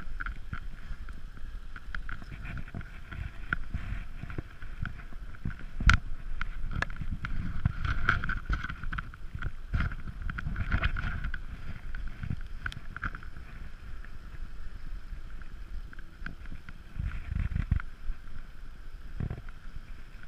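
Bicycle coasting downhill at speed: wind buffeting the microphone and tyre and road noise, with scattered clicks and rattles and one sharp knock about six seconds in.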